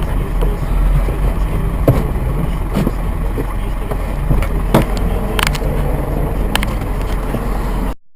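Car driving, heard from inside the cabin: a steady low rumble of engine and road noise with a few light knocks. It cuts off suddenly near the end.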